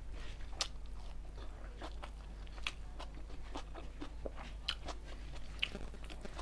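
Close-miked chewing of chicken and rice: irregular wet mouth clicks and smacks. A low steady hum lies underneath.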